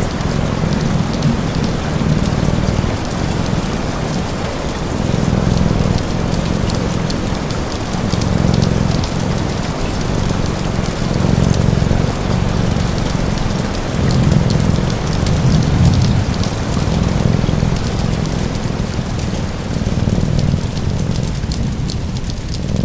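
Steady rain mixed with a cat's low purr that swells and fades every couple of seconds, with a light crackle of a wood fire.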